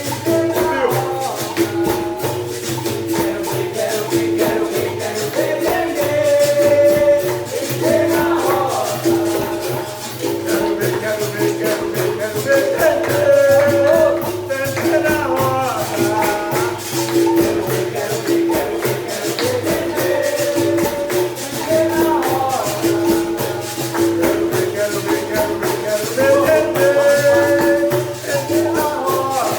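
Capoeira music played live: a berimbau sounding a repeated note, with the rapid rattle of a caxixi shaker and pandeiro jingles keeping a steady rhythm. A voice sings phrases every few seconds over it.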